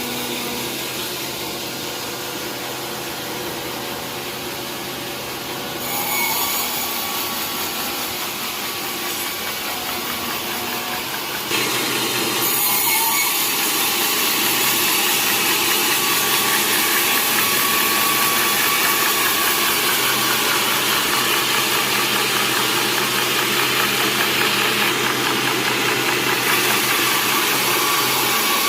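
Sawmill saw running and cutting through a large mahogany log, a steady mechanical whine with rasping cutting noise. It grows louder about six seconds in and again a little before halfway, where the cutting noise stays strong and hissy.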